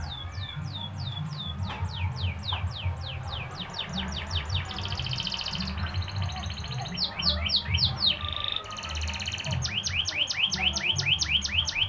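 Domestic canary singing a long continuous song: repeated downward-sliding whistles that speed up into fast trills, broken by buzzing rolled phrases, over a low steady hum.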